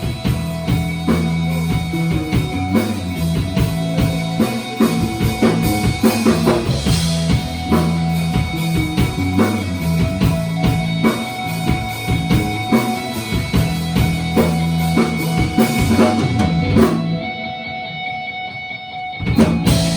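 A rock band playing live: electric guitar, bass and drum kit. Near the end the drums drop out under a held chord, then the band strikes one last loud hit.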